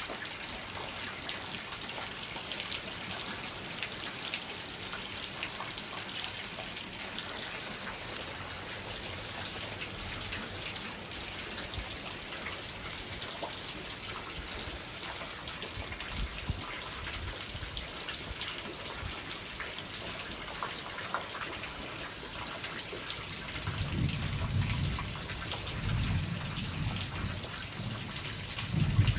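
Rain falling steadily on surfaces, with fine drop patter throughout. A few short low rumbles come in over the last few seconds.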